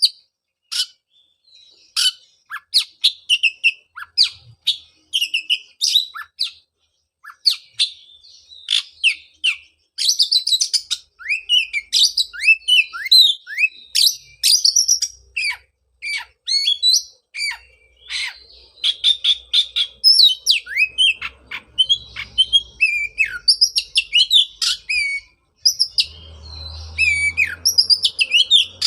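Oriental magpie-robin (kacer) singing a fast, varied song of whistles, chirps and sharply falling notes, in phrases broken by short pauses.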